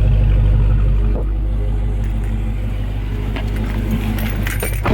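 2021 Dodge Charger SRT Hellcat Redeye's supercharged 6.2-litre HEMI V8 idling on its stock exhaust, mid mufflers still fitted: a steady low rumble that is quiet for a Hellcat, "like a baby". It drops slightly in level about a second in.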